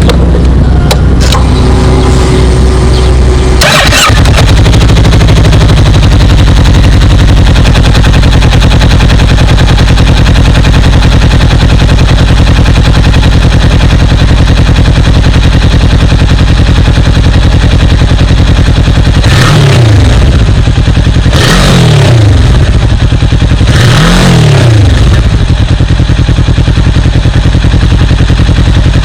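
Kawasaki Z650RS parallel-twin with an SP Tadao aftermarket exhaust idling steadily. There is a single sharp crack about four seconds in, then three quick throttle blips in the last third, each rising and falling in pitch.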